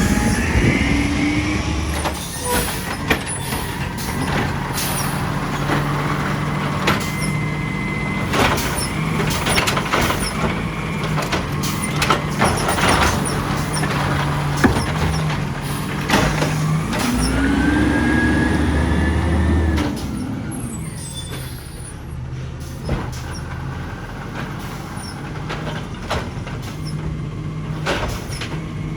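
Side-loader garbage truck at work: its diesel engine runs steadily and revs up for a few seconds past the middle, with repeated sharp metallic clanks and knocks. The sound drops off after the revving.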